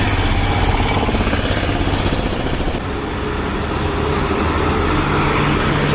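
Road vehicle engine running steadily with road and traffic noise, a continuous low hum under a loud rushing noise.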